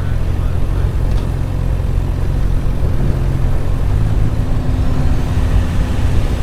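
Suzuki GSX-R600 inline-four engine running steadily at low revs in a high gear, with wind rushing past. About four seconds in, a faint higher engine tone joins.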